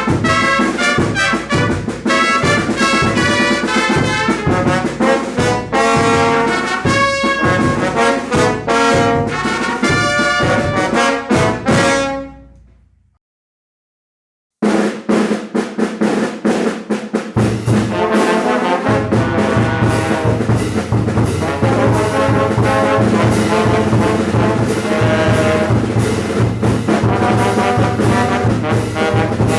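Mexican banda brass band playing: trumpets and trombones over drums and a rhythmic bass line. About twelve seconds in the music fades out to dead silence for about two seconds, then the band comes back in, the bass growing heavier a few seconds later.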